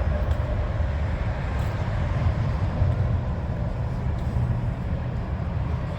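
Low, steady rumble of idling truck engines.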